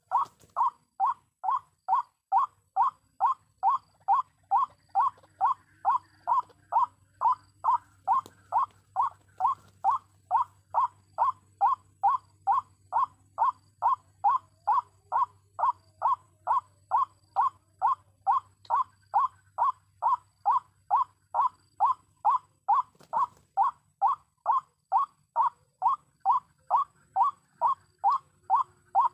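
White-breasted waterhen lure call: the same short croaking note repeated evenly, about two a second, without a break. It is the pikat call used to draw waterhens to the trap. A faint low hum runs underneath for most of it.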